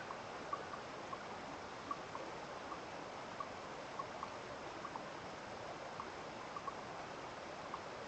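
Steady rush of flowing water, like a small stream, with short high plinks scattered irregularly through it, two or three a second.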